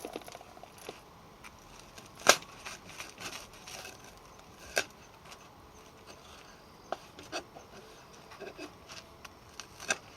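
Wood campfire burning quietly, giving off scattered sharp pops and crackles; the two loudest pops come a couple of seconds in and just before the middle, with smaller ones later.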